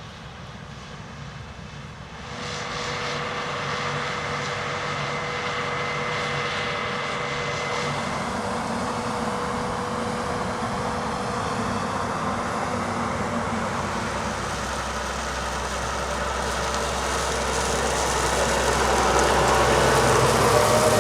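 Large diesel harvest machinery running. The sound steps up about two seconds in to a steady drone with a whine, and a deeper rumble joins about two-thirds of the way through, louder near the end.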